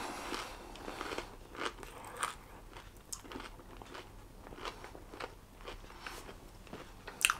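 A person chewing a mouthful of food with the mouth closed: soft, irregular crunches at a low level. A short, sharper sound stands out near the end.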